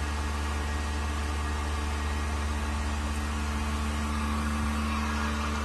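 Vacuum pump running steadily, drawing vacuum on a 1600-litre mixer's sealed chamber: an even low hum with a few steady tones over a light hiss.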